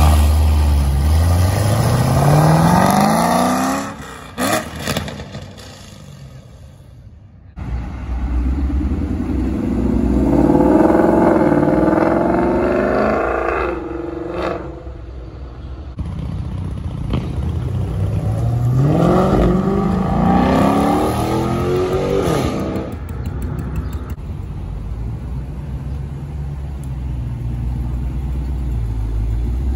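Supercharged 6.2-litre Hemi V8 of a Dodge Challenger Hellcat Redeye revved up several times, its pitch climbing steeply with each rev, then settling to a steady low idle near the end.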